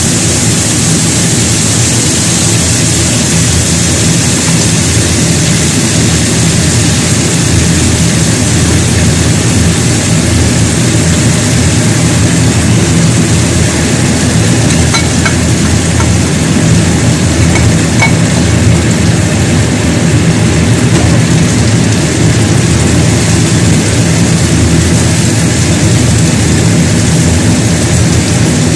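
A loud, steady machine hum with a hiss above it, from a kitchen appliance's motor running continuously; it does not rise or fall.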